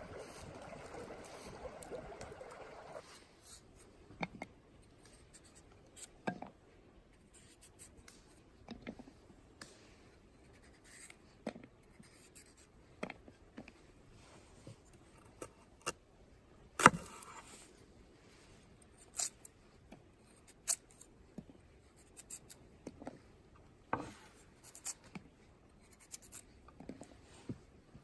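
Knife working raw potatoes by hand: scattered short scrapes and cuts with sharp clicks, the loudest about halfway through. A steady rushing noise stops about three seconds in.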